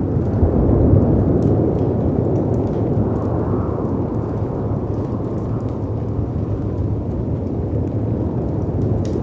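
A deep, steady noise of wind and sea waves that swells about a second in, with faint crackles and pops of a wood fire scattered through it and one sharper pop near the end.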